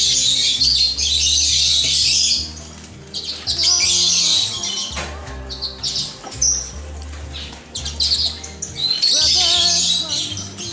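Many small caged birds chirping and twittering together in bursts, over background music with a steady bass line.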